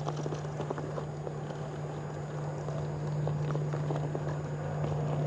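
1/10-scale RC rock crawler crawling slowly over rock: a steady low electric-motor and gear whine that gets a little louder about three seconds in, with scattered clicks of tyres and chassis on stone.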